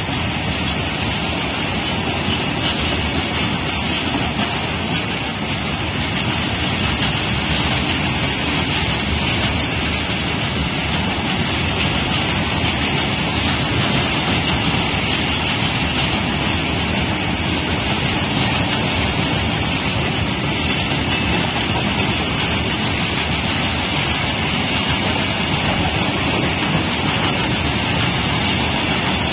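Freight train of open-top box wagons running past close by at speed, a steady, loud noise of steel wheels rolling on the rails.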